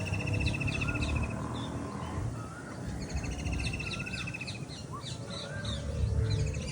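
Several birds calling together: a rapid trill lasting about a second that comes twice, short high chirps, and rising whistles, over a steady low rumble.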